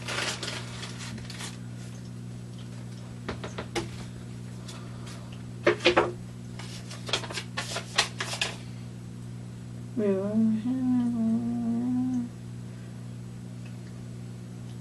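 Irregular clicks and rustles of plastic kit pieces and packaging being handled, over a steady low electrical hum. About ten seconds in, a person hums briefly with a wavering pitch.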